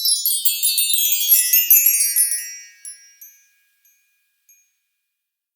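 A twinkling, magical chime effect: a shower of many high bell-like tones that drifts downward in pitch and fades away about three seconds in.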